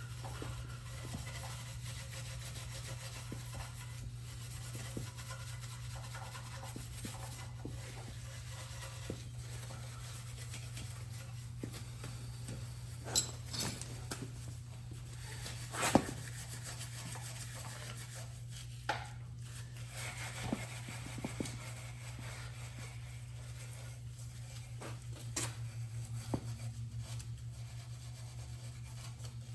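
Hand scrubbing with a wire brush on the sprayer's metal frame: scratching, rubbing strokes over a steady low hum, with a few sharp knocks now and then.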